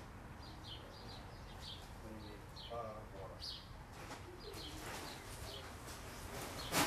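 Small birds chirping repeatedly in short high calls over a steady background hush, with a sharp knock or click near the end.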